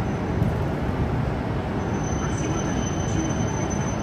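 Steady rumble and hiss of a Shinkansen train standing at the platform with its equipment running, a faint high-pitched whine over it.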